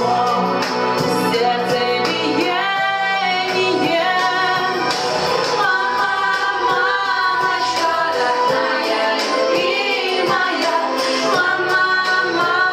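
A song with a female vocal over a pop-style instrumental backing, the voice holding and bending long notes.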